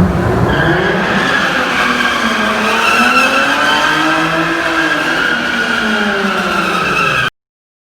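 Car tires squealing continuously while an engine revs up and down underneath; it stops suddenly near the end.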